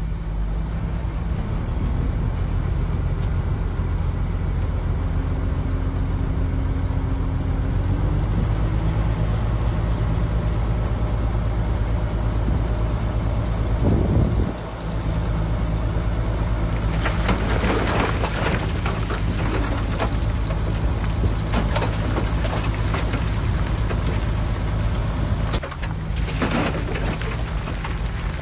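Heavy diesel earthmoving machinery running steadily under load, with a deep engine drone. A faint whine rises briefly a few seconds in. Bouts of clattering and scraping come about two-thirds of the way through and again near the end.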